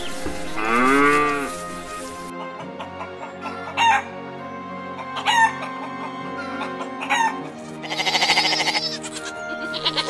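A cow moos once about a second in. A chicken follows with three short, sharp falling calls, then a longer wavering call near the end, over soft background music.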